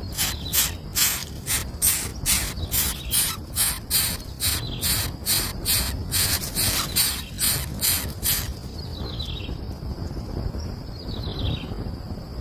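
Birds calling: a raspy high chirp repeated about two and a half times a second stops about eight seconds in. A few short whistled calls sliding downward follow.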